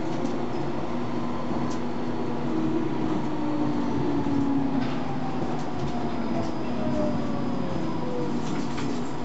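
Tram heard from inside the passenger car, running steadily along the track with a few faint clicks. Its motor whine slides down in pitch over several seconds as the tram slows.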